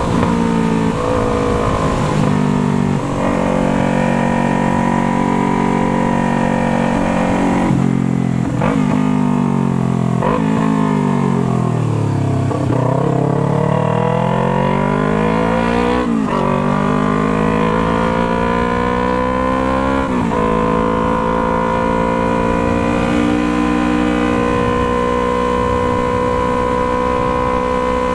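Yamaha MT-03 parallel-twin engine with a Jeskap exhaust, heard while riding. It holds steady revs, then slows with the revs falling in steps as it shifts down, about eight to twelve seconds in. It then accelerates with rising revs, broken by two upshifts, before settling back to a steady cruise.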